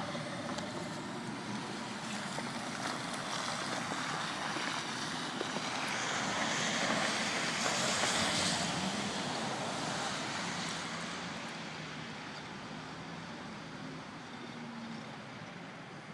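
Audi A4 driving through snow: a broad rush of tyre and engine noise that swells about six to nine seconds in, then fades away.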